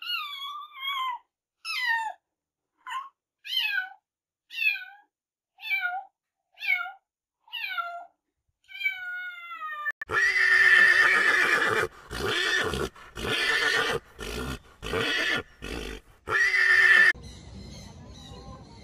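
Animal calls: about nine short calls, each falling in pitch, roughly one a second. About ten seconds in they give way to a louder run of longer, harsher calls with short breaks between them.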